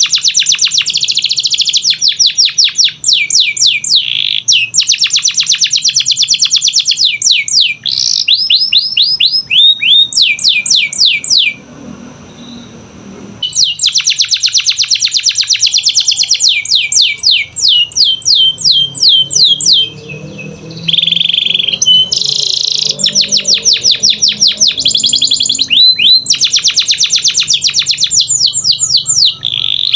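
Domestic canary singing a long song of fast trills and rolls, each run a rapid string of repeated high notes, some sweeping upward. The song breaks off for about two seconds near the middle, then resumes.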